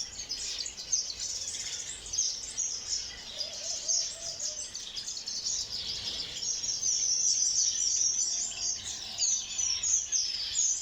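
A flock of small finches chirping and chattering together in an aviary, many overlapping short high-pitched calls, busier during the second half.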